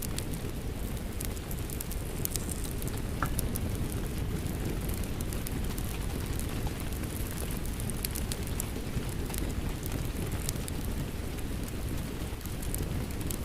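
Steady rain mixed with a crackling fireplace: a constant low rumble with sharp pops and crackles scattered through it.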